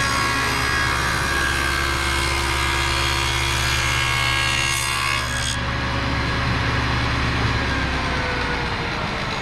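Table saw with its blade tilted to 17 degrees cutting a tenon cheek in a leg piece of man-made board; the blade's cutting noise stops sharply about five and a half seconds in. The saw keeps running freely after that, and near the end its pitch starts to fall as it winds down.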